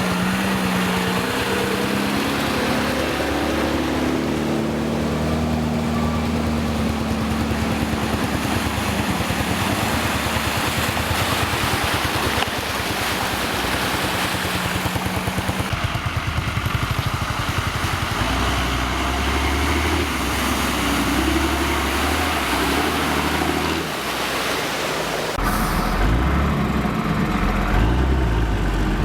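Off-road vehicle engine working, its pitch rising and falling with the load, with the sound changing abruptly about 25 seconds in.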